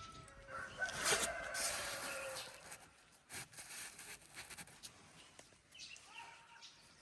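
Call duck giving a harsh call about a second in, followed by light scuffling and clicks as it is handled.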